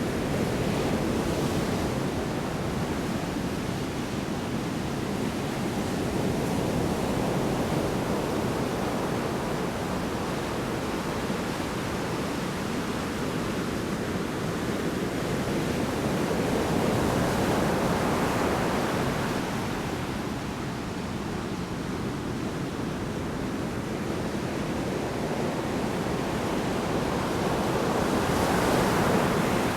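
Heavy storm surf: large waves break on the shore in a continuous roar of rushing water. It swells louder as each wave crashes, about every ten seconds, with the biggest surges past the middle and near the end.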